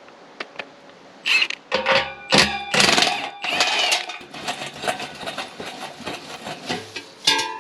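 Impact wrench hammering on a 15 mm bolt in short, loud bursts, with metal clanks between them.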